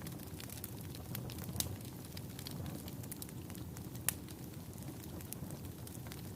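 Wood fire burning in a fireplace: a low, steady rumble of flames with irregular sharp crackles and pops from the burning logs. One louder pop comes about four seconds in.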